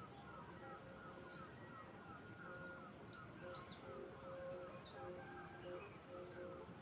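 Songbirds singing faintly: a high warbling phrase comes every second or two, four times, over a quicker run of short repeated lower notes.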